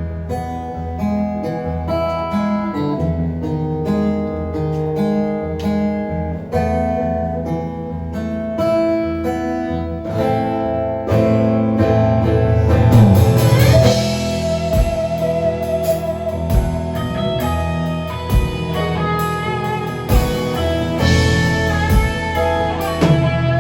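Live guitar music: the instrumental introduction to a song, picked guitar notes over sustained low notes.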